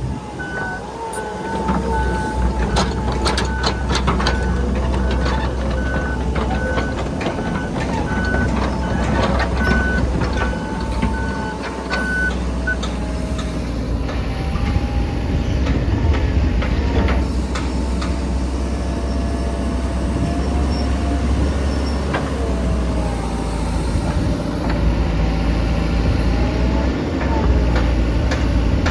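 Hitachi ZX160 excavator's diesel engine running under load, with a travel alarm beeping about once a second for the first twelve seconds. A whine rises and falls in pitch as the machine works, and there are a few clanks early on.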